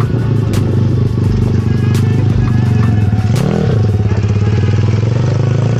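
Motocross bike engine running loud, its exhaust without a dB-killer, with a steady drone and a brief rev up and back down about three and a half seconds in. A few sharp clicks come through over it.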